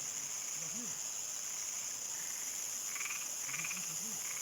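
Frogs croaking at nightfall, low calls that rise and fall in pitch, over a steady high shrill of crickets. A couple of short buzzy trills sound higher up about three seconds in.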